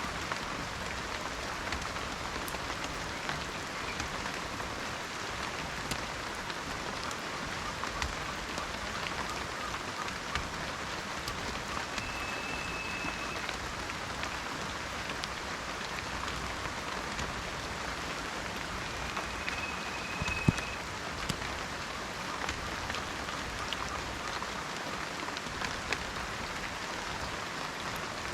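Steady rain falling on leaves and ground, with individual drops ticking and one louder drop hitting about 20 seconds in. A short, high, steady whistle-like tone sounds three times over the rain, each lasting about a second and a half.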